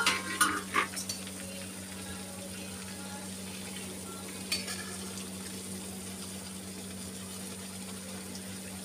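Stuffed capsicums shallow-frying in oil in a kadhai: a steady sizzle and bubbling. A sharp metal clatter opens it as the steel plate lid is set down, followed by a few light clinks, and another small clink about four and a half seconds in as a steel spatula comes to the pan; a steady low hum runs underneath.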